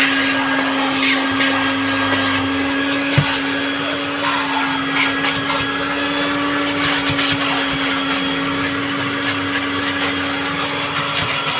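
Car-wash machine running steadily: a constant-pitch motor hum over a hissing noise. A single sharp knock about three seconds in.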